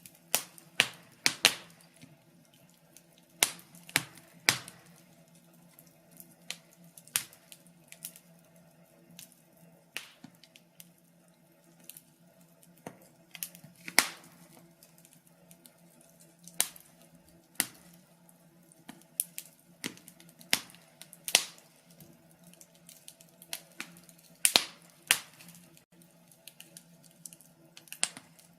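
Wood fire crackling: sharp pops and snaps at irregular intervals, a few every couple of seconds and varying in loudness, over a faint steady low hum.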